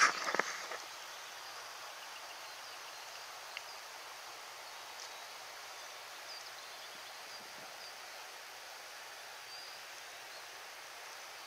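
Mountain stream flowing steadily, with a few faint high bird chirps. A loud rustling at the very start dies away within the first second.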